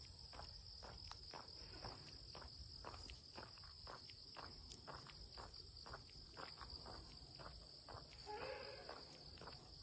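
Steady chorus of forest insects droning at two high pitches, with footsteps walking a path about twice a second. A sharp click comes near the middle and a short call shortly before the end.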